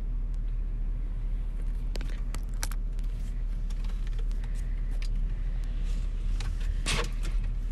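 Car engine idling steadily, a low even rumble heard from inside the car's cabin. A few sharp clicks come about two and three seconds in, and a louder knock about seven seconds in.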